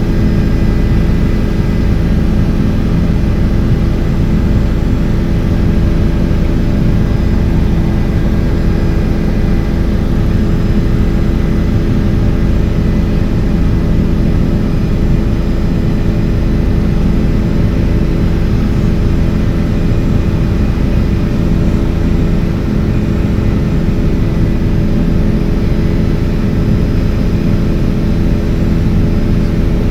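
Helicopter in flight: the steady drone of its engine and rotors, loud and unchanging, with several held tones.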